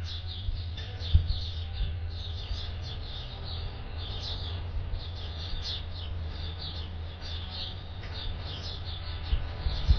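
A flock of small birds chirping continuously, many short high chirps every second, over a steady low rumble with a few soft thumps, the sharpest about a second in.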